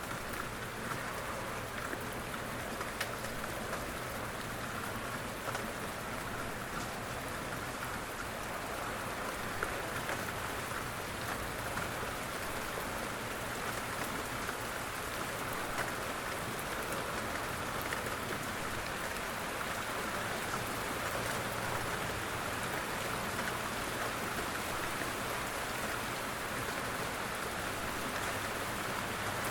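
Steady rain falling, with a dense patter of individual raindrops on a surface.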